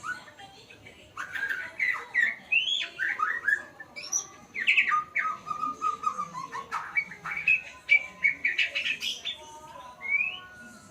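A murai songbird singing a fast, varied song of whistled notes, chirps and sliding calls. Partway through it holds one steady note, and near the end it gives a final rising note.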